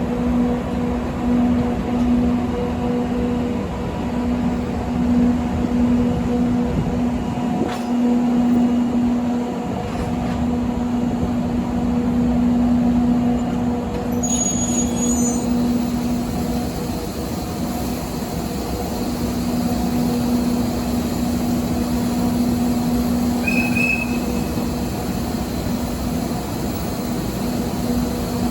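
A train running with a steady hum and constant rolling noise, with a few brief high squeaks along the way.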